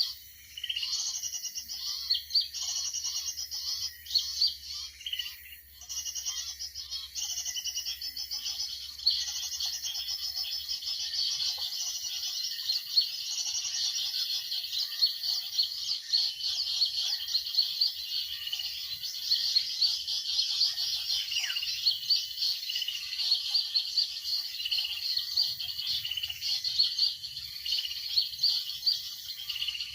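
Continuous rapid, high-pitched bird chirping and trilling, with a fainter, lower quick chatter underneath.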